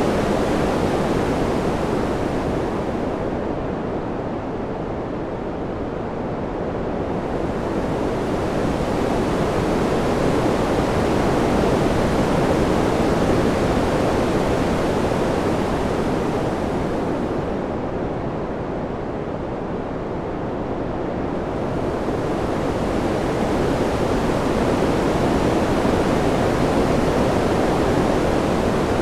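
Wind sound: a continuous rushing noise, deepest in the low and middle range, that swells and eases. Twice, about fourteen seconds apart, it softens and loses its hiss before building again.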